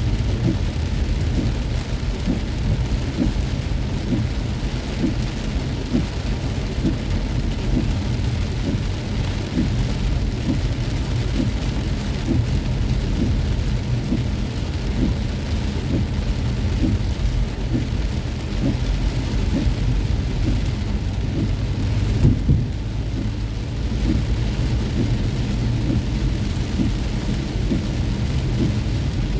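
Heavy rain pelting a moving car, a dense patter of drops over a steady low rumble. There is a single louder knock about three-quarters of the way through.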